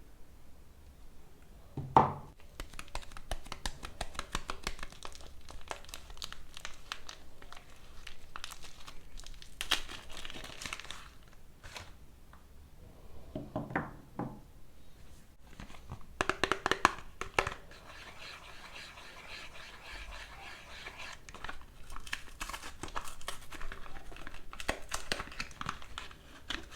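Soap packaging wrappers crinkling and tearing as soap bars are unwrapped by hand, in several stretches of dense crackling, with one sharp snap about two seconds in.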